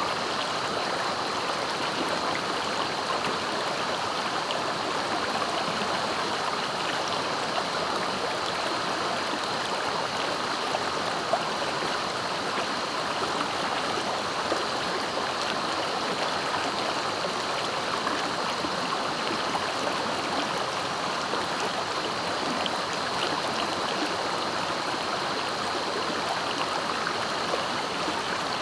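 Clear, fast-flowing river running steadily, an even rushing of water.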